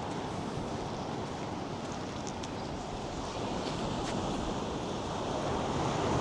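North Sea surf rushing steadily onto a sandy beach, mixed with wind, swelling a little near the end.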